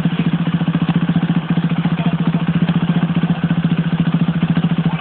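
Motocross bike engine idling close by, a steady, rapid, even putter.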